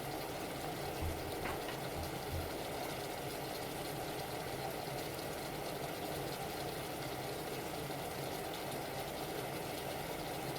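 Steady low rushing noise of stovetop cooking, with a few soft knocks in the first few seconds.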